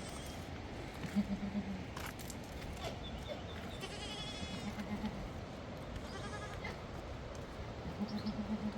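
Livestock bleating: short, wavering low calls about a second in, around five seconds in and near the end, with a higher, shriller bleat about four seconds in.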